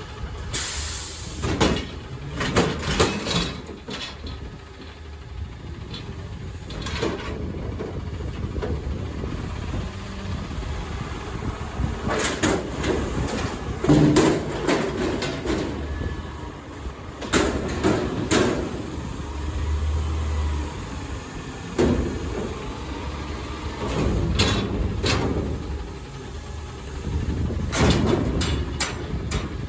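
Garbage truck working its route: the engine runs under repeated metal clanks and bangs, in clusters every few seconds, as carts are lifted and emptied into the hopper.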